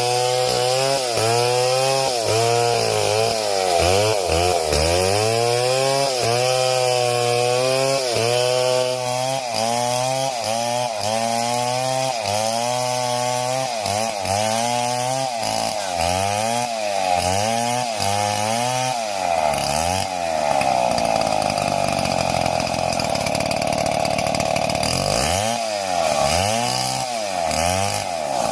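Gasoline chainsaw running at high revs while cutting wood, its engine pitch repeatedly dipping and recovering about once a second as the chain bites. For a few seconds about two-thirds through it holds a steady high pitch, then dips again near the end.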